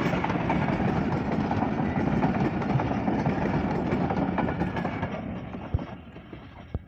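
Passenger train running past on the track, a dense rumble and rattle of wheels and locomotive that fades away from about five seconds in. Two short sharp thumps come near the end.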